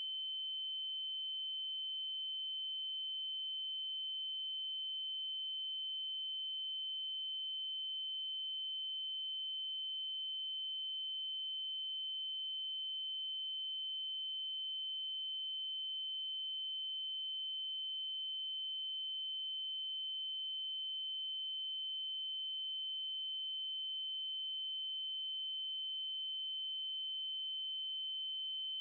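A steady electronic test tone: a 3072 Hz triangle wave, one unchanging high-pitched pitch held without a break.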